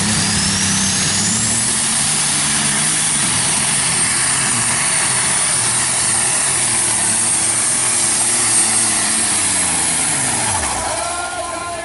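Light super stock pulling tractor's turbocharged diesel engine running at full power during a pull, with a high whistle that rises over the first couple of seconds and then holds. The engine winds down near the end.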